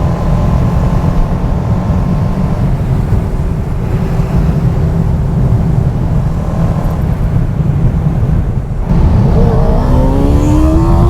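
Motorcycle engine and wind rush heard on board while riding; about nine seconds in the sound dips briefly, then the engine pulls up with a rising pitch as the bike accelerates.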